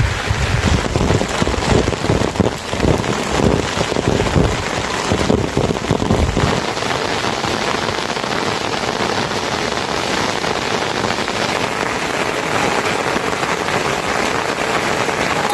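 Steady rain falling, with wind buffeting the microphone for the first six seconds or so before it stops abruptly.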